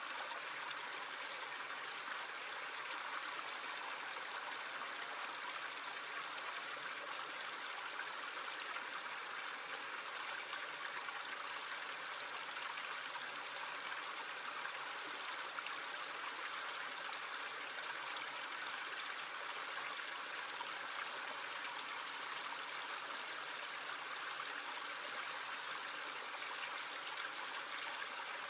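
Small creek running with an even, unbroken flow of water.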